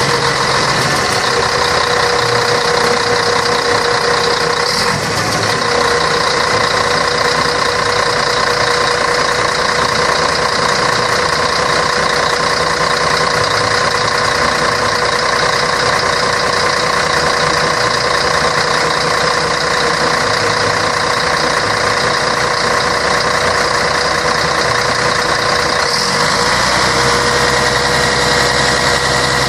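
Scania K113 bus's diesel engine running steadily, with a steady whine that fades about five seconds in and comes back near the end.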